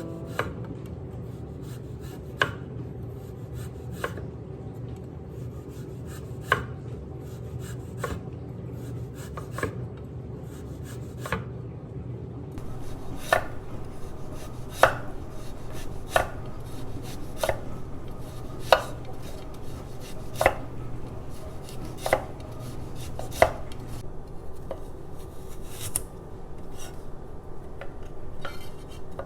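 Knife slicing burdock root on a cutting board: single sharp chops about every one and a half seconds, over a steady low hum.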